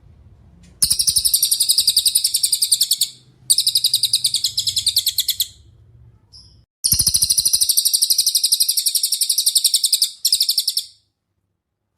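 Cililin songbird singing rapid, high-pitched trilling phrases. There are three long trills of two to three seconds each and a short final burst, with brief gaps between them.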